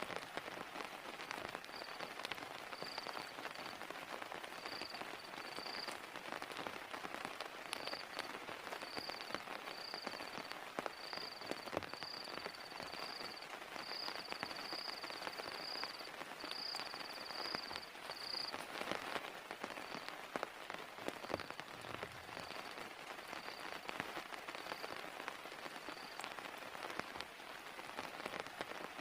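Heavy rain falling steadily, with many close drop impacts. A short, high-pitched chirp repeats about once a second through most of it and stops near the end.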